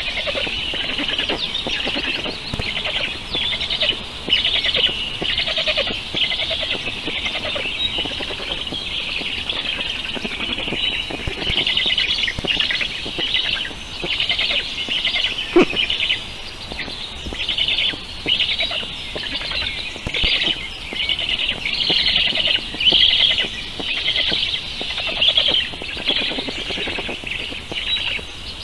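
Birds chirping continuously, many short high calls overlapping without pause. A single sharp click a little past halfway.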